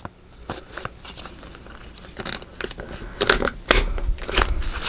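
Paper envelope being handled, with rustling, crinkling and small clicks that get busier and louder in the second half, along with a few soft thumps on the work surface.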